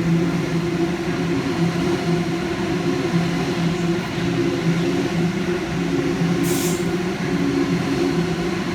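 Electric passenger train passing through the station without stopping, its motors giving a steady low hum with a slight pulse. A short hiss about six and a half seconds in.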